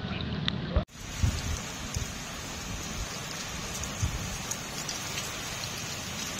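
Heavy rain pouring down onto a flooded street, a steady hiss of rain on water and hard ground, with a few low thuds shortly after the start.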